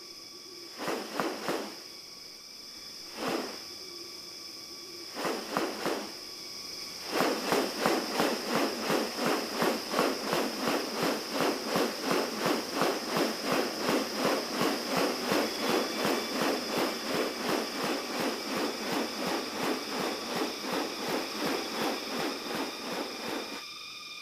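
Rainforest insects droning on several steady high tones. A few short bursts come in the first six seconds, then a long run of rapid repeated pulses, about three a second, from about seven seconds in until near the end.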